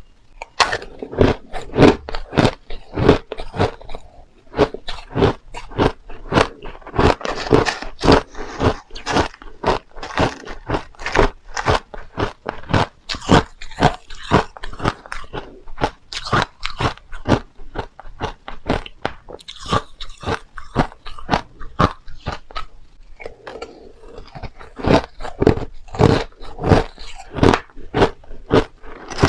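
Crushed ice being bitten and chewed, close to the microphone: a rapid run of hard crunches, several a second, thinning out for a few seconds past the middle before picking up again.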